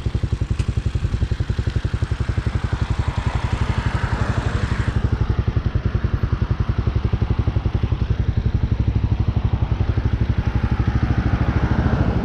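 Hawk 250 dirt bike's single-cylinder engine running steadily at cruising speed, a continuous even pulsing exhaust note. A higher rushing hiss over it fades about five seconds in.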